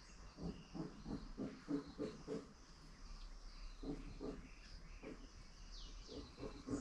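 Outdoor animal and bird sounds: runs of short, low grunt-like calls, several a second, come in three bursts, with thin high bird chirps above them and two quick falling chirps near the end.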